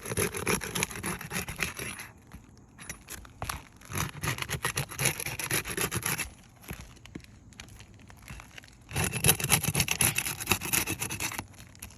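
Rubbing and scraping on asphalt 3-tab roof shingles, in three stretches of about two seconds each.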